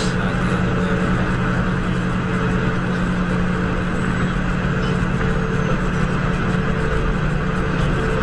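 Vehicle driving on the road as picked up by a dashcam: a steady engine drone with road noise, even throughout.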